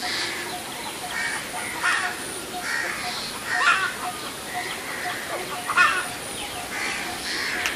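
Birds calling over and over, the loudest calls coming about two, four and six seconds in.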